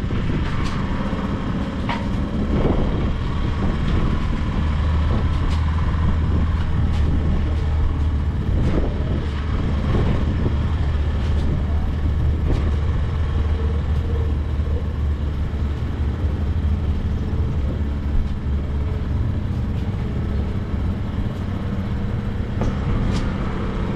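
Small outboard motor idling in neutral, a steady low hum that grows a little stronger a few seconds in, with a few light knocks over it.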